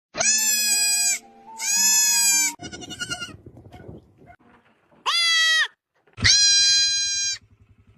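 Goats bleating loudly in four long, drawn-out calls, two in quick succession, then a rougher, quieter stretch, then two more.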